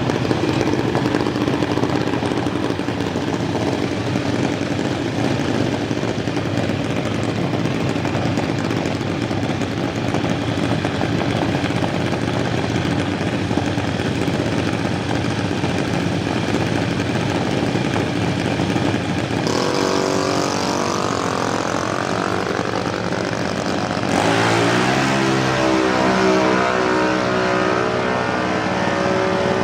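A half-scale junior dragster's Craw's Racing ZR3 engine, breathing through a Borla muffler, running steadily for about twenty seconds. It then revs up in rising sweeps of pitch, and a few seconds later climbs again, louder, as it accelerates hard.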